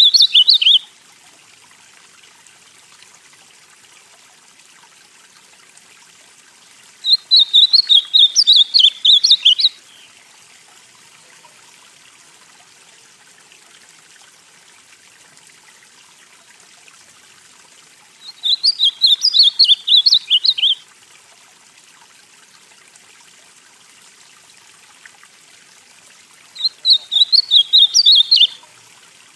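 Male ultramarine grosbeak (azulão) singing: rapid warbled song phrases, each about two and a half seconds long, repeated about every eight to ten seconds, with the tail of one phrase at the very start and three more after it. A faint steady hiss lies between the phrases.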